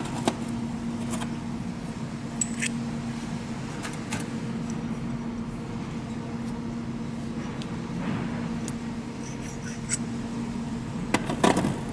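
Scattered light metallic clicks and taps of an injector seal-ring installation tool being worked on a Caterpillar fuel injector, with a quick cluster of clicks near the end, over a steady low hum.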